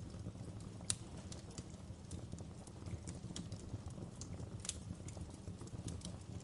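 Wood fire burning with a steady low rumble and irregular crackles and pops, a sharp one about a second in and another strong one near the end of the fifth second.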